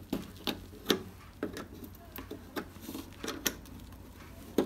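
Irregular plastic clicks and small snaps as a screwdriver pries the plastic front bezel of a TCL LED TV, popping its tiny internal locks free; the sharpest snap comes near the end.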